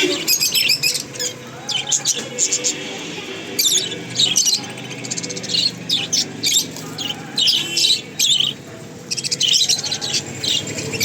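Cockatiels chirping, with many short high calls in quick overlapping bursts and brief pauses between them.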